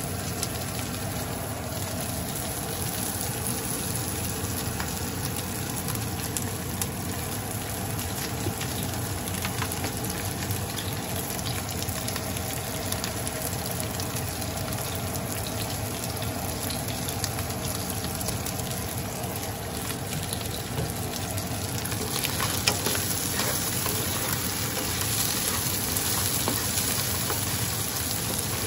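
Flaked mackerel, garlic and onion sizzling steadily in oil in a nonstick frying pan. About three-quarters of the way through the sizzle gets louder and a wooden spoon starts scraping and stirring the pieces around the pan.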